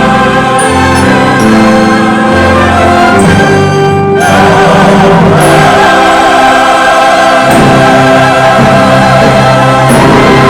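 Church choir singing with orchestra accompaniment, with a brief break about four seconds in before the voices carry on.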